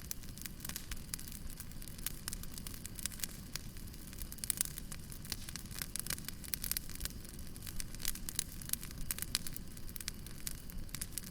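Wood fire burning: dense, irregular crackling and snapping over a steady low rumble and hiss.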